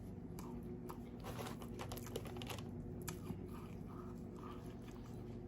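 A person chewing fast food: a run of small moist clicks and crunches, thickest in the first half, over a steady low hum.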